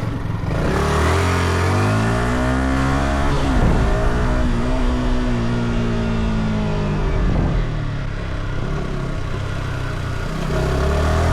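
Yamaha R125's single-cylinder 125cc four-stroke engine through its stock exhaust, accelerating through the gears: the pitch rises, drops at a gear change about three and a half seconds in, rises again and drops at a second shift about seven and a half seconds in, then runs lower and quieter for a few seconds before pulling up again near the end.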